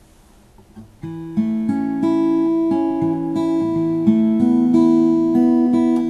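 Acoustic guitar playing picked notes that ring into one another, starting about a second in.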